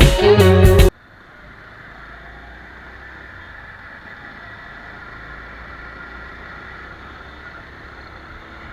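Guitar background music cuts off suddenly about a second in, leaving a steady, quieter motorcycle engine and road noise from a ride in progress, with a low hum underneath.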